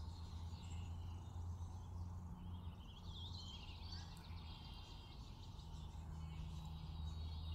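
Faint room background: a steady low hum, with a few short bird chirps about two and a half to three and a half seconds in.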